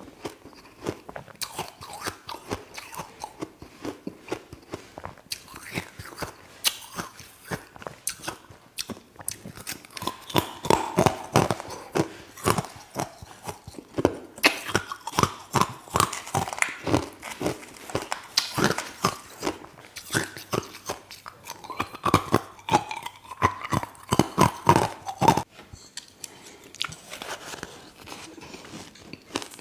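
Close-up crunching and chewing of ice, shaved ice and hard ice, in quick irregular bites and crunches throughout.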